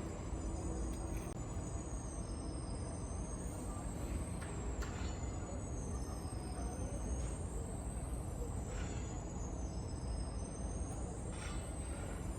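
Steady low rumble of factory machinery, with thin high-pitched chirping squeals gliding up and down above it and a few light knocks.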